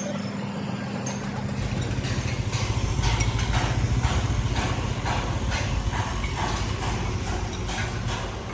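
An engine runs with a low steady hum that comes up about a second in, while sharp knocks repeat evenly, about three a second, over it.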